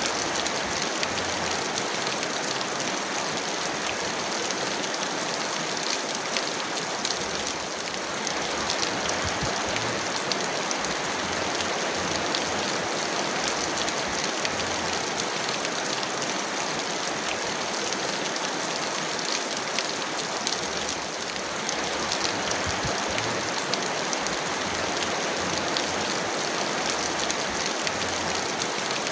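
Heavy rain falling steadily: a dense, even hiss with many separate drop ticks.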